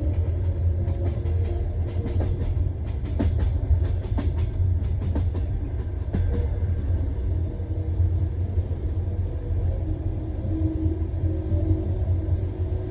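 Railway carriage wheels running on the track, heard from the train's window: a steady low rumble with the wheels' faint drifting tones, the 'singing of the wheels'. A run of sharp clicks comes in the first half.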